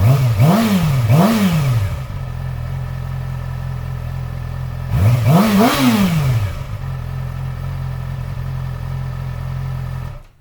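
Yamaha R6 inline-four sport bike on its stock exhaust, warmed up and idling, blipped three times in quick succession at the start and twice more about five seconds in, each rev rising and falling back to idle. The engine is switched off just before the end and the sound cuts out abruptly.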